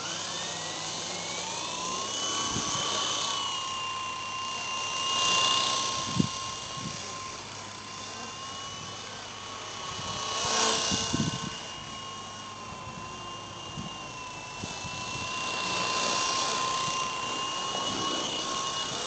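Small electric motor and rotors of a Fast Lane XR2022 radio-controlled helicopter. The motor's whine rises over the first two seconds as it spins up, then holds steady as a high whine. The rotor noise swells louder several times, and there are a few brief knocks.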